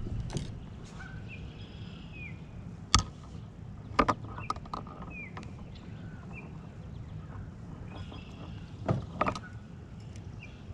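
Sharp knocks and clicks on a kayak hull, one about three seconds in, a quick cluster a second later and a pair near the end, over a low steady rumble. Faint short bird chirps come and go in the background.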